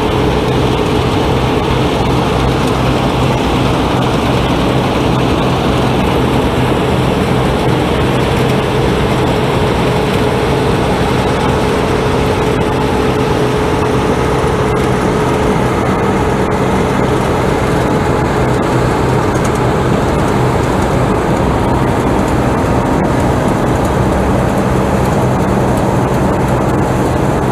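A farm machine's engine running steadily at a constant speed, a loud, even drone with a low hum and a higher steady tone.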